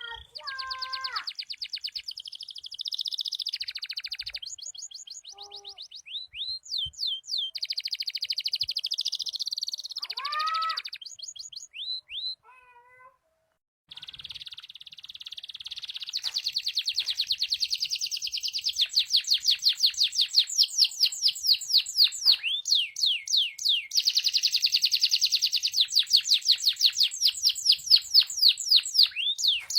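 Domestic canary singing a long song of rapid trills and whistled notes. After a brief pause a little before halfway, one unbroken fast trill runs on, growing louder.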